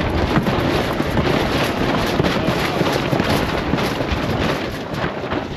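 Strong wind buffeting the microphone on a sailboat as a storm front arrives, with dense, irregular crackling and flutter throughout.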